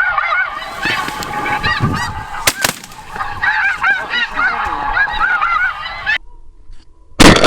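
Dense chorus of snow geese calling, many short overlapping honks, which cuts off abruptly about six seconds in. A brief loud blast follows near the end.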